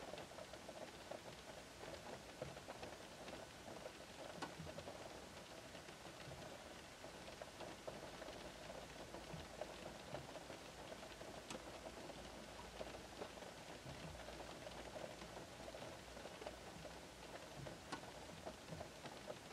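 Gentle rain pattering on a parked car's roof and windows, heard from inside the cabin: a soft steady hiss with many small drop ticks and now and then a sharper single drip.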